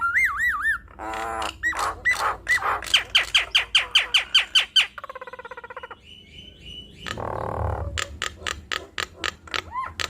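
Nias hill myna singing a varied, loud string of warbled whistles, buzzy rattles and sharp clicks, with a fast run of short rising whistled notes in the middle and a harsh rasping call after it.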